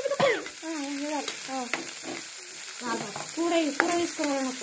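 Chopped onion and chilli sizzling in hot oil in a steel pan, stirred with a steel ladle that scrapes and clicks against the pan a couple of times. Voices talk quietly over it.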